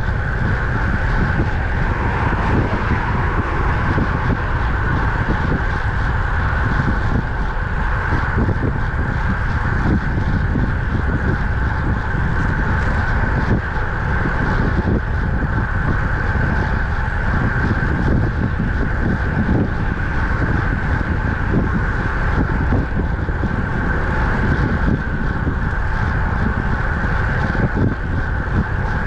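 Wind rushing over the microphone of a camera riding on a road bike at speed, with steady tyre and road noise beneath and a steady high hum over it.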